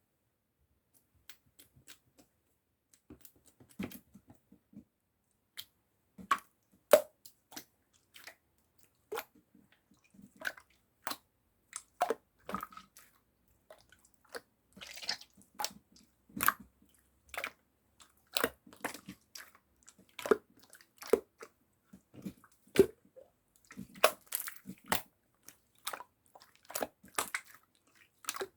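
Clear slime being pressed and squished by hand, giving irregular sticky clicks and pops.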